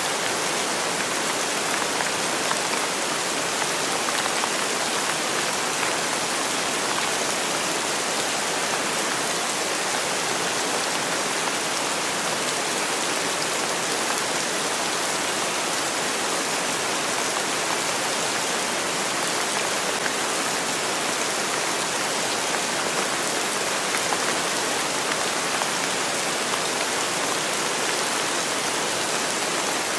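Steady rainfall: a dense, even hiss of raindrops, with no change in intensity.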